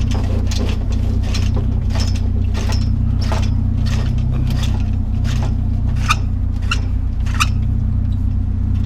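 Vehicle engine idling steadily, with a run of sharp clicks, snaps and rattles as a metal umbrella frame is pulled apart by hand for scrap.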